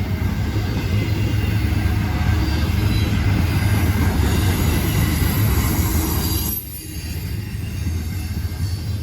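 Freight train rolling past with a steady low rumble of wheels on rail, and a high metallic hiss from the wheels strongest in the middle. The sound drops off suddenly about six and a half seconds in, then goes on more quietly.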